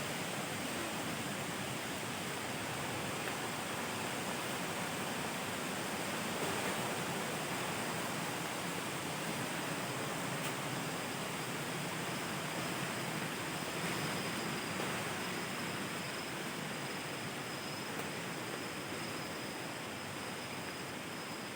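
Waterfall: the steady rush of falling water, an even noise without breaks. A thin, high steady tone sits above it and grows clearer in the second half.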